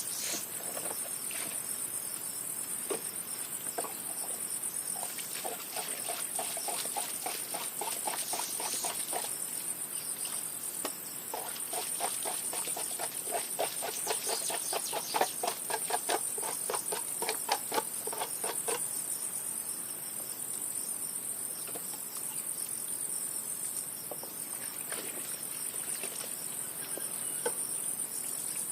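Steady, high-pitched insect chorus of crickets. In the middle a long spell of rapid ticking joins it.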